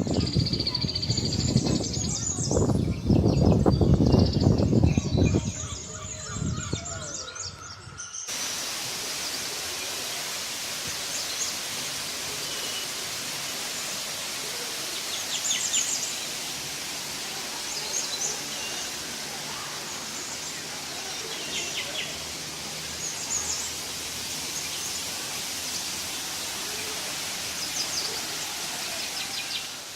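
Small birds chirping and tweeting in short high calls over a steady background hiss. For the first several seconds a loud, low rumbling noise covers them, then cuts off suddenly.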